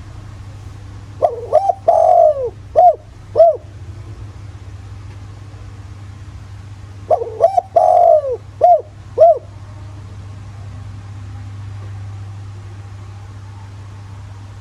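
Spotted dove cooing: two phrases of its song about six seconds apart, each a few short notes, one longer drawn-out coo and two short closing coos. A steady low hum runs underneath.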